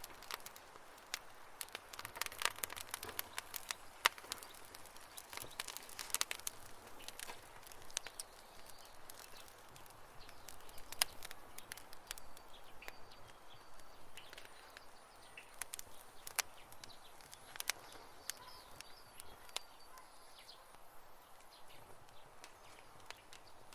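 Wood fire crackling: irregular sharp pops and snaps over a soft hiss, busiest in the first half, with faint short high chirps from about halfway in.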